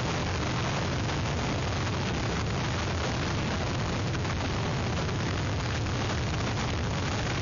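Hurricane-force wind and rain on an outdoor webcam microphone: a steady, loud rush with a deep buffeting rumble from the wind hitting the mic.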